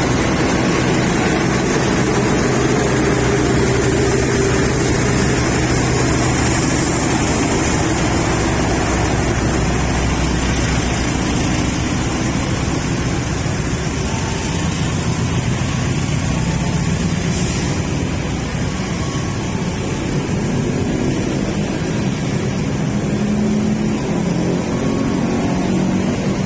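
A train running through the station close by: a steady rumble of wheels on rails under a motor hum whose pitch shifts and rises in the later part.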